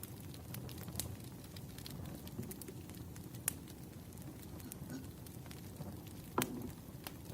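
Wood fire crackling, with a steady low rumble of flames and irregular snaps and pops; one louder pop about six seconds in.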